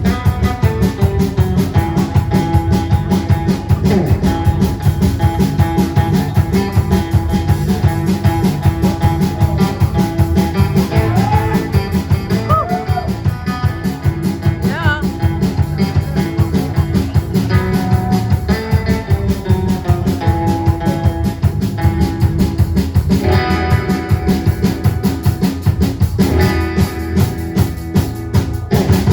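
Rock band playing with electric guitars and a drum kit at a driving, steady beat, with a few bent lead-guitar notes about halfway through.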